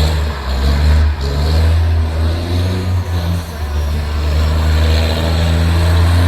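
Heavy truck engine running with a loud, deep, steady rumble, its pitch shifting slightly up and down.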